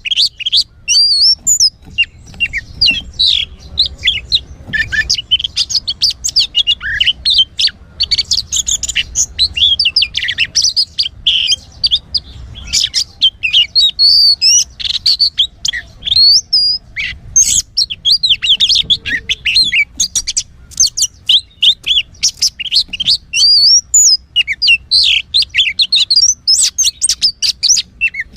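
Oriental magpie-robin (kacer) singing a fast, varied song of chirps, trills and whistles, nearly continuous with short pauses.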